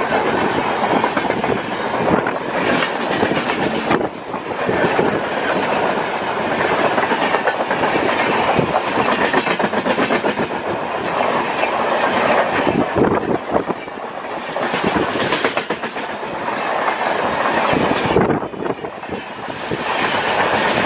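Passenger express train passing close by at speed: a steady rush with wheels clattering over the rail joints.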